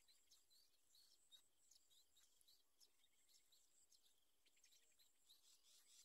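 Very faint high bird chirps, short and repeating about two or three times a second, over a steady high tone.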